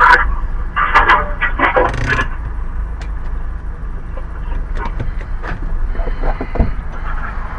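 Car moving slowly along the road, a steady low rumble, with a cluster of short sharp knocks in the first two seconds and scattered ticks after.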